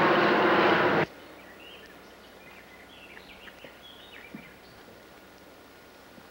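A loud burst of noise that cuts off abruptly about a second in, then faint short bird chirps over a quiet outdoor background.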